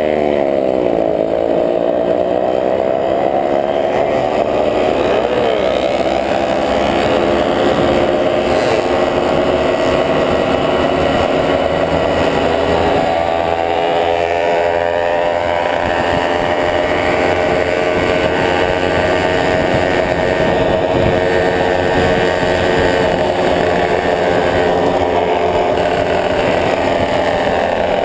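Motorcycle engine running under way: its pitch drops briefly at the start, climbs over the next few seconds as it accelerates, then holds at a steady cruising speed.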